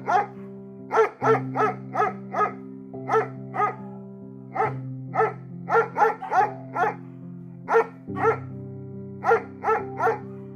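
A dog barking in quick runs of short, sharp barks, about three a second, with brief pauses between the runs, over background music with sustained notes.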